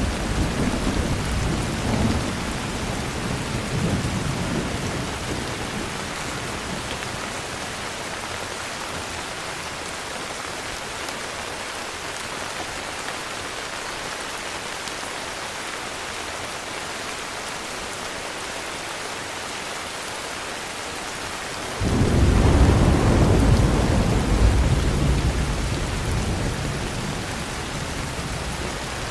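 Steady heavy rain with thunder: a low rumble fades away over the first few seconds, then about twenty-two seconds in a new thunderclap breaks in suddenly and rumbles off slowly.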